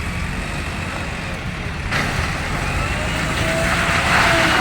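JCB 3DX backhoe loader's diesel engine running under load, with a steady low rumble. About two seconds in it gets louder, and a faint whine rises and falls after that.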